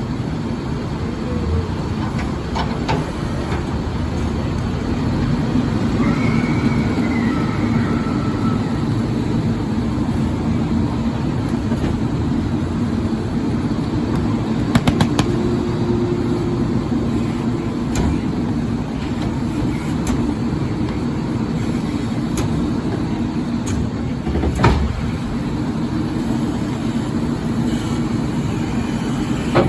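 Leach rear-loader garbage truck running steadily while crushing cardboard bales, with scattered clicks and knocks, a brief high squeal about six seconds in, and a sharp thump near the end.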